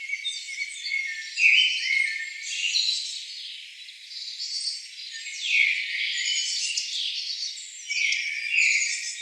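Rainforest chorus of many overlapping high-pitched bird chirps and calls with insects, quick falling notes and trills layered on one another, with nothing low.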